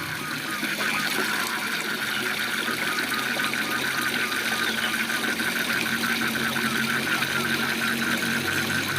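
Steady rushing of a waterfall with frogs calling over it in rapid pulsed trills, several pulses a second.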